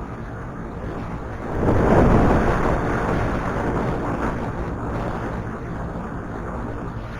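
Motorcycle riding, engine running under steady wind rush on an action-camera microphone. About a second and a half in, a loud rushing swell builds, peaks briefly and eases off over the next few seconds.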